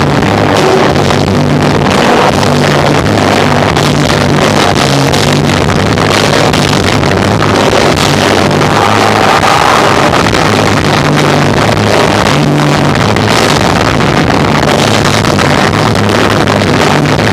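Live rock band of electric guitar, bass and drums playing loud, recorded overloaded and muddy, with the bass notes shifting every second or so under a dense wash of guitar and cymbals.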